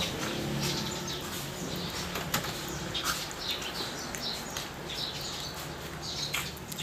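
Small birds chirping in short, repeated high bursts, with a few light taps and clicks scattered through.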